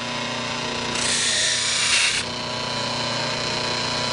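Electric buffer running steadily with a felt wheel loaded with compound. A horseshoer's knife edge is pressed to the spinning wheel for about a second, a loud hissing rub, then lifted off so only the motor's steady hum remains.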